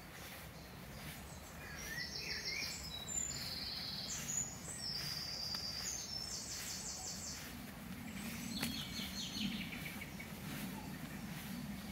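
Small songbirds singing: a run of quick, high trilled phrases over the first half, then a lower trill, over a faint low rumble.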